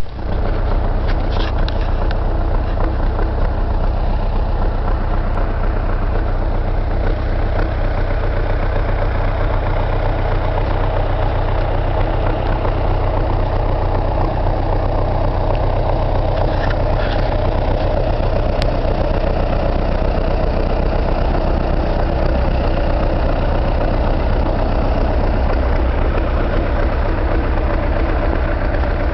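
Tractor engine running steadily at an even speed with a low, constant drone.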